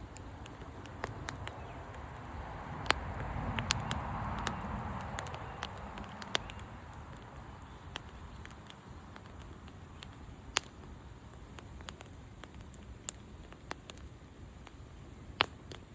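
Campfire crackling: scattered sharp snaps and pops over a low steady hiss, with a soft rushing swell about three to six seconds in.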